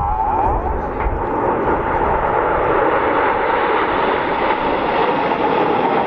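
BAE Hawk T1 jets flying past, a steady loud jet rush with a wavering, sweeping sound in the first second as they go by.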